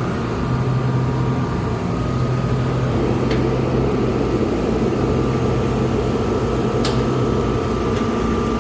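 Cold-room refrigeration unit with its axial fan running steadily: an even hum with a thin, constant high whine.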